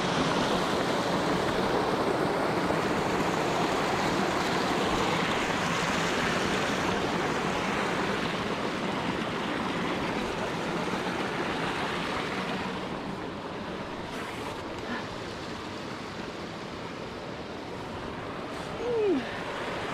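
Rushing water of a mountain stream cascading down rocks, a steady dense rush that starts suddenly and eases slightly about halfway through.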